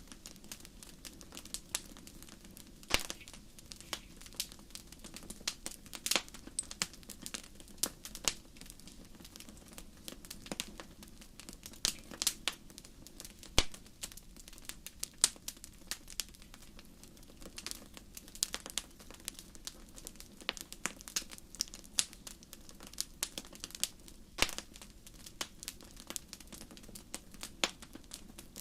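Wood fire crackling, with sharp, irregular pops and snaps a few times a second over a steady low rumble.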